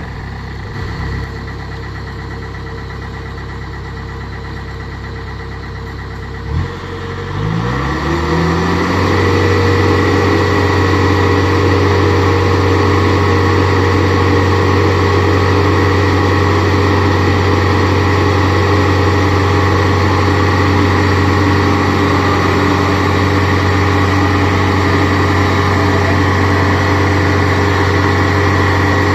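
Kubota DC70 Plus combine harvester's diesel engine idling steadily. About six and a half seconds in there is a short thump, then the engine revs up over a couple of seconds and holds steady at high speed.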